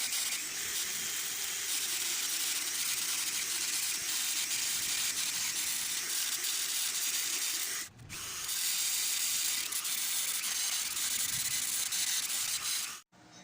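A power tool working on an aluminum frame during a crack repair: a steady, harsh hiss that breaks off briefly about eight seconds in and cuts off sharply near the end.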